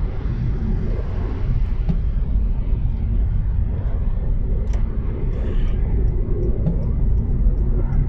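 Steady low rumble inside a moving car's cabin: engine and tyres running over a snow-covered road. Faint, evenly spaced ticks come in near the end.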